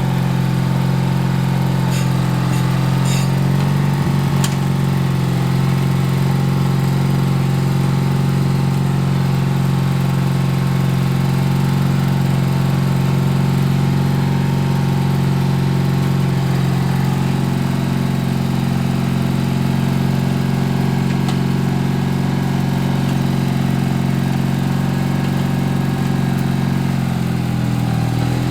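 Craftsman LT4000 lawn tractor's vertical-shaft engine running steadily under load, with a few faint clicks a few seconds in. Near the end the engine's pitch dips and then recovers.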